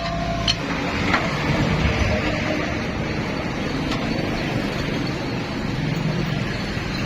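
An engine running steadily, with a couple of sharp metallic ticks about a second in and about four seconds in.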